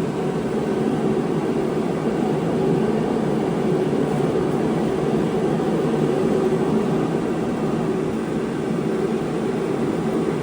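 Plug-in forced-air gas heater running: its fan and burner make a steady, even rushing noise.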